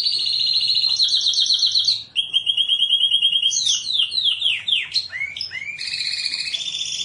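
Domestic canary singing a continuous song of rapid trills, switching to a new repeated phrase about every second, with a run of falling whistled sweeps around the middle.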